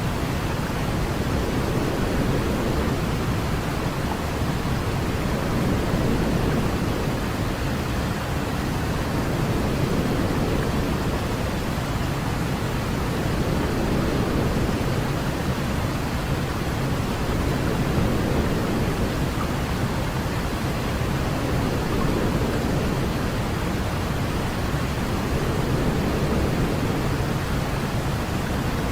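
Steady white-noise sleep sound for a baby: an unbroken hiss weighted toward the low end, with only slight slow swells in loudness.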